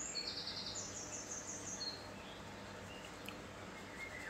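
Faint bird chirping: quick high trills of rapidly repeated notes in the first two seconds, then fainter short chirps and gliding calls, over a low steady room hum.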